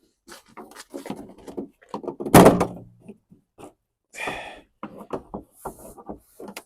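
Plastic interior trim of a 2005 BMW X3 being pried and worked loose. Scattered knocks and scrapes, with one loud thunk a little over two seconds in, followed by a brief low ring, then more light clicks.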